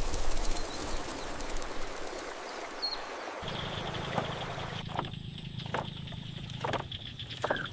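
Rural outdoor ambience: a rushing, wind-like noise, then an abrupt change about three and a half seconds in to a steady high-pitched drone over a low hum, with a few short bird chirps and clicks.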